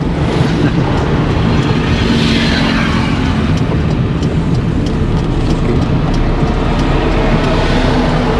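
A car driving along a road, with a steady engine hum and road noise. A swell of rushing noise about two seconds in sounds like another vehicle going past.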